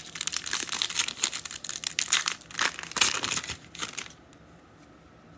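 Foil trading-card pack wrapper being torn open and crinkled for about four seconds.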